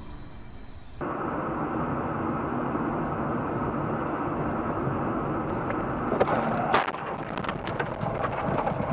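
Steady road and engine noise as heard by a car's dashcam, then a burst of sharp cracks and knocks about six to seven seconds in, typical of a vehicle collision.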